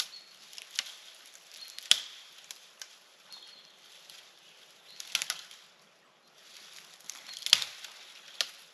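Sharp cracks and knocks of dry wood, about six of them at irregular intervals. The loudest comes about two seconds in, and a heavier one about three-quarters of the way through.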